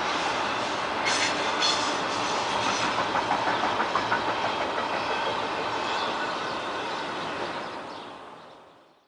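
Freight train cars rolling past, steel wheels clacking over the rail joints in a quick, regular rhythm over a steady rumble. The sound fades away near the end.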